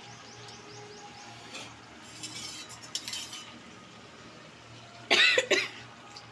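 Metal spoon stirring and clattering against a cooking pot of curry. Faint stirring at first, then a loud, short ringing clatter about five seconds in, over a low steady hum.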